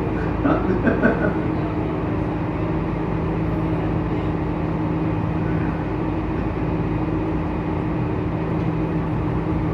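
Tour boat's engine running steadily under way, a constant low hum with an even rush of noise over it.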